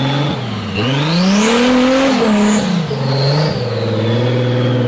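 Car engine sound running steadily, then revving up about a second in and falling back to a steady run over the next two seconds.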